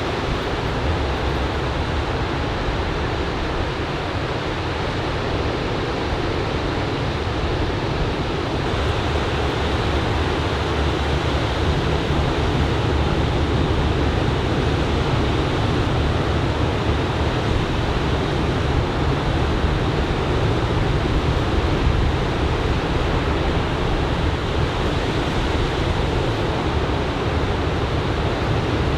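Ocean surf from a typhoon swell washing onto the beach, a steady rushing noise without a break.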